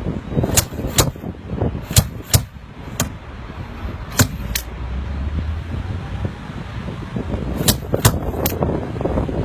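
Hammer striking the sheet metal of a car door during quick dent straightening: about ten sharp taps in small groups, with a pause of a few seconds in the middle.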